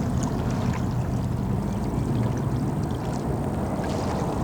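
Steady rush of flowing water, with a few faint ticks over it.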